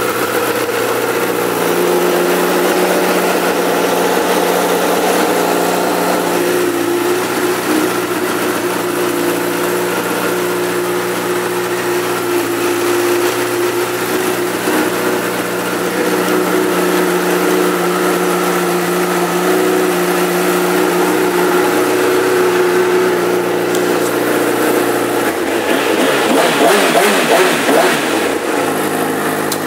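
2011 Honda CBR1000RR's inline-four engine idling steadily, then revved up and down several times near the end before the sound cuts off.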